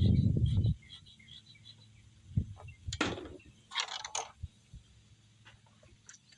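Close handling noises: a dull rumble against the microphone at first, then a few scattered clicks and two short scraping rustles. Faint bird chirps come through at the start.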